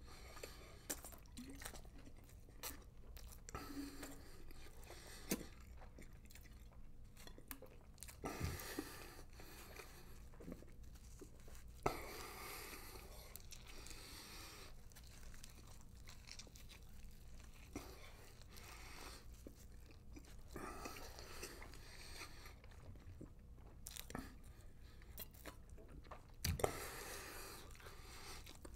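A man chewing and biting fast through sausage McMuffins, with crunching from burnt, hard-toasted English muffins. Soft irregular chewing is broken by a few louder, sharper crunches.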